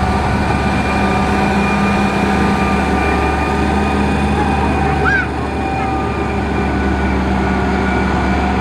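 Heavy construction machine's diesel engine running steadily, a loud, even low drone. There is a brief high chirp about five seconds in.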